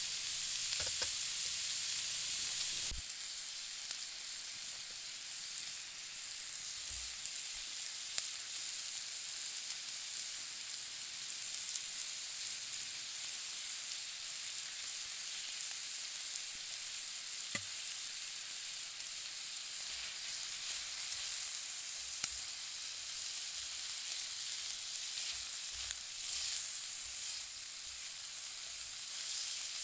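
Food sizzling steadily in a pan over a campfire, with an occasional sharp pop; the sizzle changes character about three seconds in.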